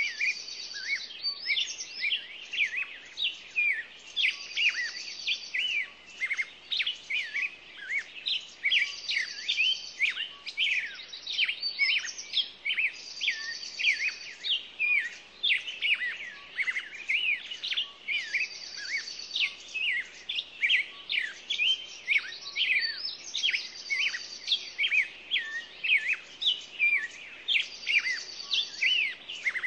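Many birds chirping and calling over one another, short quick notes without pause. A brief high trill comes back every four or five seconds.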